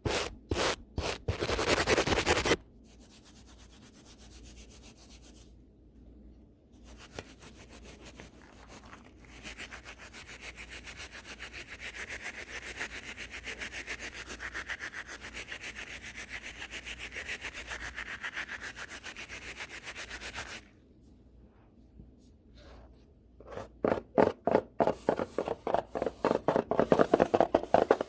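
A brush swept fast and hard back and forth right on the camera and its microphone, in quick rasping strokes several times a second. The strokes are loud at the start, turn softer and steadier through the middle, and grow loud again near the end.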